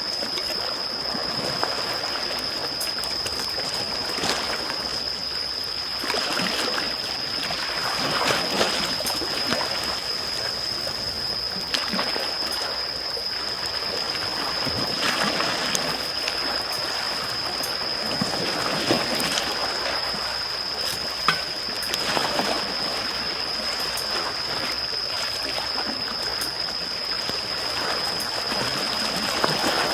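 Small waves washing and lapping on a shore, swelling every few seconds, with the sharp crackle and pop of a wood campfire. A steady high-pitched tone sits underneath.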